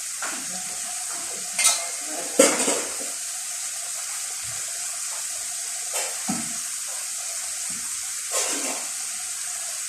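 A pan of fava beans cooking on the stove with a steady sizzle, and a few short clatters of a utensil against the pan.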